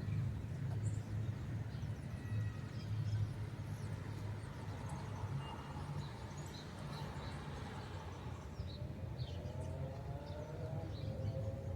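Scattered short bird chirps over a steady low rumble, with a droning tone that rises slowly in pitch near the end.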